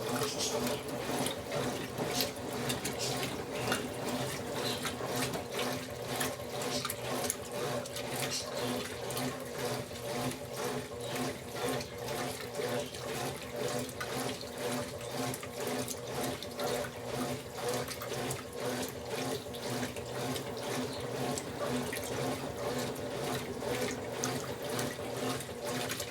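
Brastemp BWL11 washing machine agitating a load of bed linens in water during its soak stage: continuous churning and sloshing over a steady motor hum.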